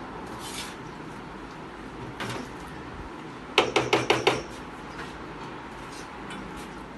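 Kitchen utensils clinking against dishware while food is plated: a couple of soft knocks early, then a quick run of five or six sharp clinks about three and a half seconds in.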